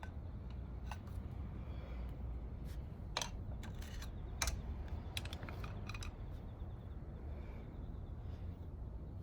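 A run of light, sharp clicks and taps, most of them bunched in the middle, from small tools and engine parts being handled, over a steady low hum.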